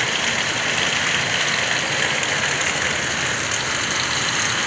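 Steady heavy rain falling, an even hiss without letup.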